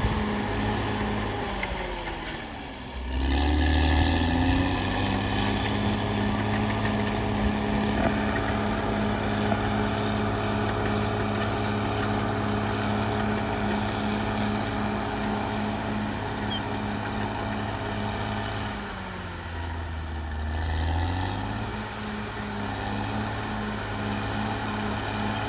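Caterpillar D6R XL bulldozer's diesel engine running steadily under load. Its pitch drops and climbs back up about three seconds in, and again near the end, as the engine slows and speeds up once more.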